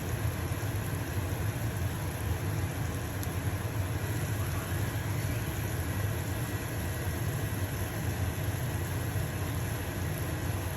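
Stove-top range hood fan running with a steady hum, over the sizzle of a pancake frying in a pan.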